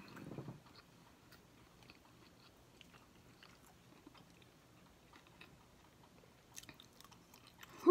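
Faint, close-miked chewing and small mouth clicks of a person eating, with a few sharper clicks near the end.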